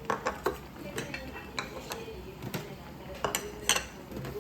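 Dishes and cutlery clinking and knocking together, a string of irregular sharp clinks.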